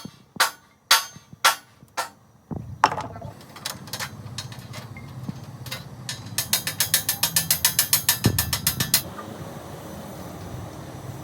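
Hand tools on metal: a few sharp blows about twice a second, then a quick run of rapid ratcheting clicks, about ten a second, lasting two or three seconds, over a low steady workshop hum.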